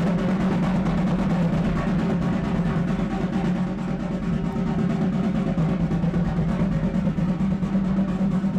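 A steady, unbroken drum roll.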